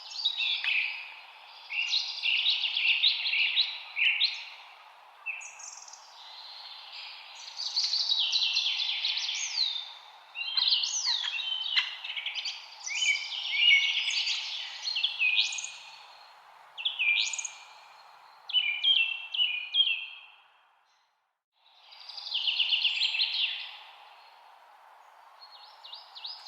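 Several songbirds chirping and trilling in quick, overlapping phrases over a steady background hiss. Everything drops out for about a second roughly three quarters of the way through, then the chirping resumes.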